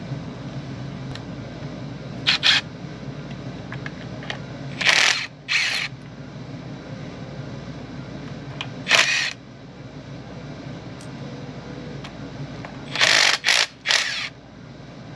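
Short, sharp mechanical bursts from tool work on the motorcycle's air intake, a pair about two seconds in, more around five and nine seconds, and a cluster of three near the end, over a steady low hum.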